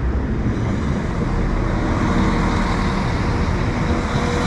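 Northern Class 195 diesel multiple unit running at the platform: a steady diesel engine rumble with a constant hum.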